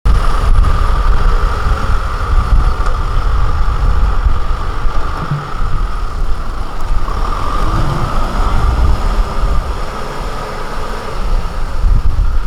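Diesel engine of heavy farm machinery running steadily, with a strong low rumble.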